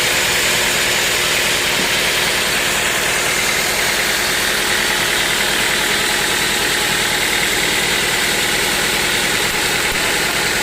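Sawmill machinery running with a loud, steady mechanical din that does not change.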